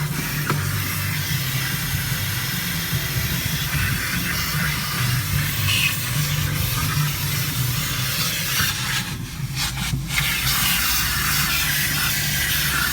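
Automatic car wash spraying water over a car: a steady loud hiss of jets and spray over a low rumble, briefly dropping away about nine seconds in before resuming.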